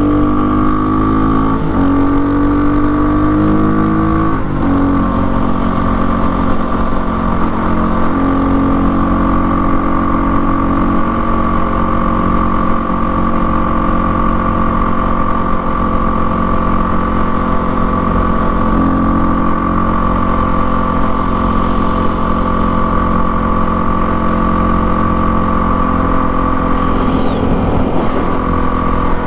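Kawasaki KLX300R single-cylinder four-stroke dirt bike, with an FMF Powercore exhaust and an open airbox, accelerating hard with two upshifts in the first few seconds, then cruising at a steady engine speed.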